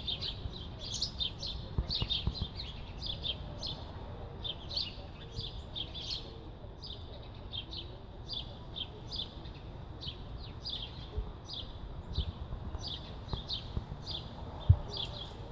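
Birds chirping at a bird house: a steady run of short, high, downward chirps, about two to three a second, over low rumbling noise, with a single thump near the end.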